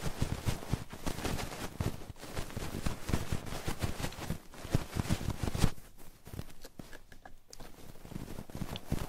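Ear-rubbing ASMR triggers: hands rubbing and brushing over a binaural microphone's ear, a close, irregular run of rustling strokes that turns softer and sparser about six seconds in.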